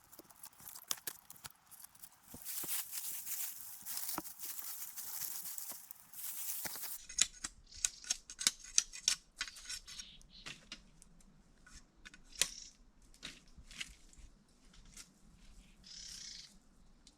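Rustling, then a run of sharp clicks and snaps, like hands working dry plant material; the rustling stops abruptly about seven seconds in and the clicks grow louder and more widely spaced.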